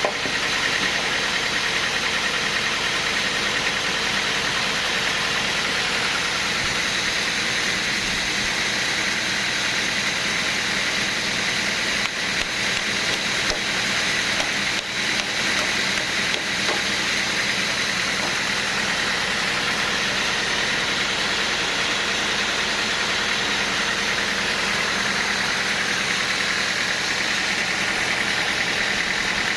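Sawmill machinery running steadily: a continuous engine-like noise with a strong high hiss, dipping briefly a few times around the middle.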